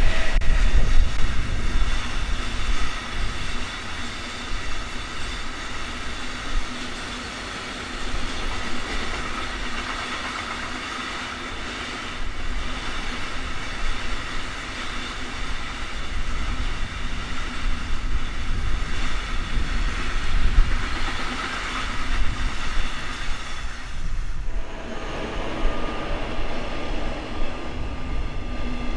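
Long freight train of empty side-stanchion flat wagons rolling past, a steady rumble of wheels on rail with a high ringing above it. About 24 s in the last wagon goes by and the sound dips; then the next train approaches with a steady high whine.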